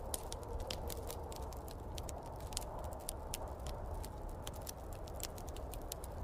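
Wood fire crackling in a fireplace, with frequent irregular sharp pops and snaps over a steady low rushing noise.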